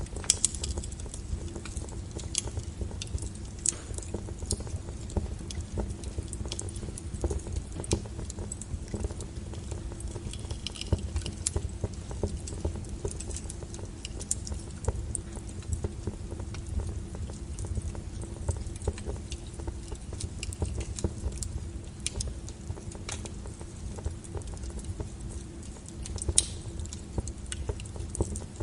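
Wood fire crackling in a fireplace: frequent sharp, irregular pops and snaps over a low rumble of the burning logs.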